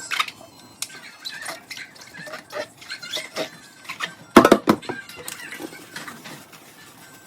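Dishes and cutlery clinking and knocking as they are handled during washing-up, in scattered light clicks with a louder cluster of clattering knocks about four and a half seconds in.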